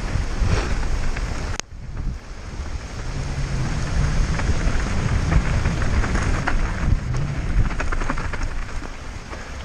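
Wind buffeting the microphone of a rider-mounted camera on a mountain bike descending at speed, over a steady din of tyres and frame rattling on rough, rocky ground with many small clicks and knocks. The sound drops out sharply for a moment a little over a second and a half in.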